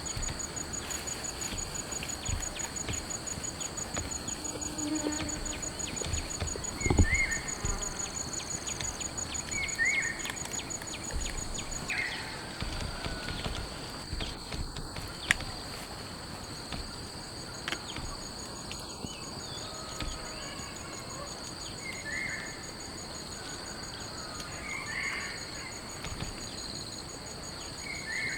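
Insects trilling steadily at a high pitch, one of them in a fast pulsing trill, with a short chirping call every few seconds. Scattered light taps and one dull thump about seven seconds in.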